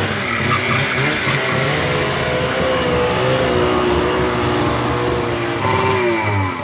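Snowmobile engine running under throttle, its pitch rising and falling as the revs change.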